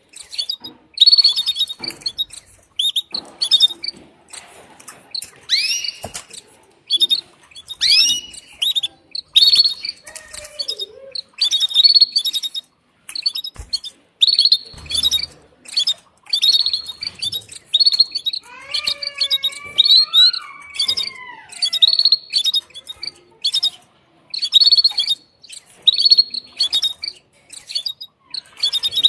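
Female canary giving its mating call to a male: clusters of short, high chirps repeating about once a second. Around the middle, a lower wavering call runs for a few seconds.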